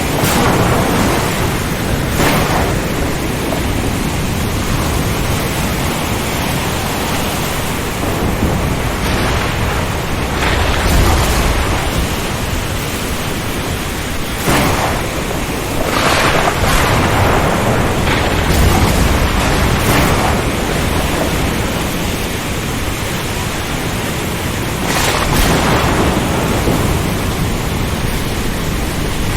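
Thunderstorm: a steady wash of heavy rain and wind, broken several times by sudden thunder cracks and low rolling rumbles.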